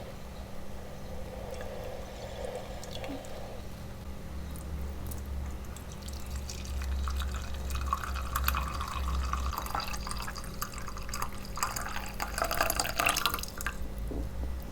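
Water dripping and trickling, with small clicks and clinks in the second half.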